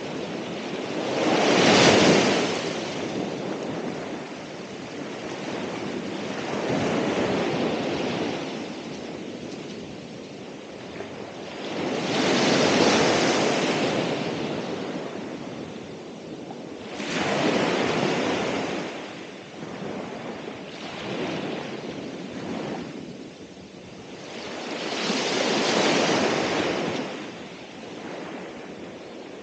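Ocean waves breaking and washing up the shore, about five swells, each rising and falling away over a few seconds, the first the loudest.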